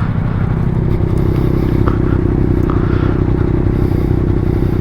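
Motorcycle engine running steadily while riding, a constant engine note with a rush of wind noise.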